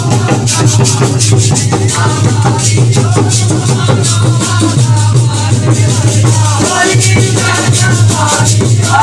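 Instrumental stretch of a Holi folk song (lokgeet): fast, continuous rattling percussion over a shifting melody, with a steady low hum underneath.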